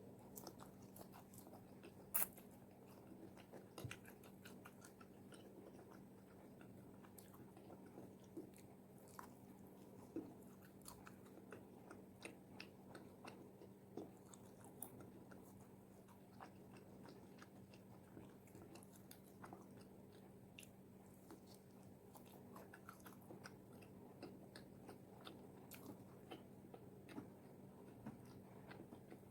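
Close-miked eating of crispy fried chicken wings: scattered crunches and chewing clicks, the sharpest crunch about two seconds in, over a faint steady hum.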